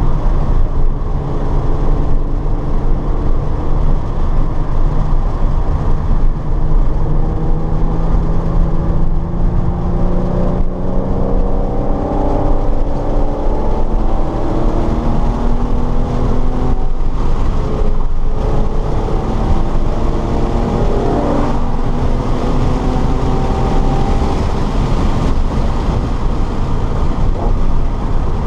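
Car engine running hard on a lap of a race circuit, its pitch climbing and dropping back several times, over a heavy, continuous road and wind rumble.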